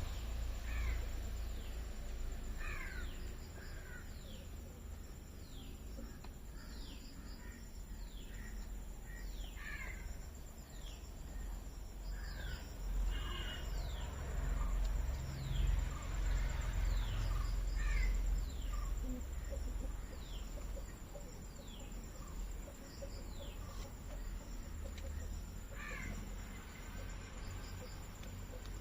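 Birds calling, with crows cawing among many short, downward-sweeping calls repeated every second or two. A steady high-pitched drone and a low rumble run underneath.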